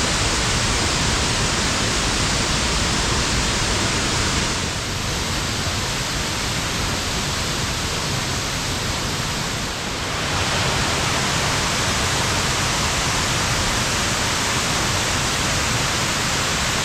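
Loud, steady rush of a creek swollen high after rain, the water pouring and cascading, a little softer for a few seconds midway.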